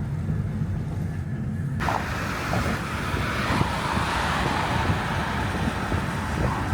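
Car travel noise: a steady low rumble of a vehicle on the road, joined suddenly about two seconds in by a broad rushing hiss.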